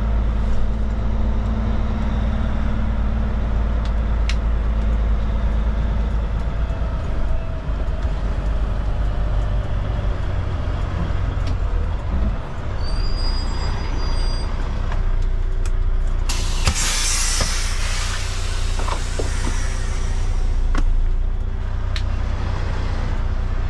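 Kenworth K200 cabover truck's Cummins diesel engine running steadily at low speed. A loud burst of air-brake hiss cuts in about two-thirds of the way through and fades away over a few seconds.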